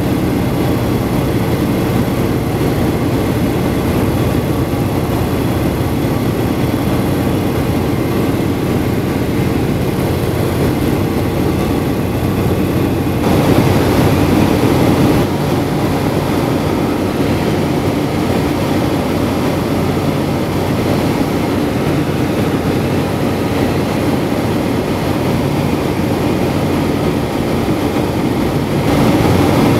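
Antonov An-2's nine-cylinder radial engine and propeller running with a steady drone, briefly louder about thirteen seconds in and again near the end.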